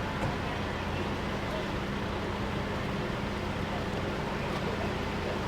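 Steady low hum of an idling vehicle engine over street noise.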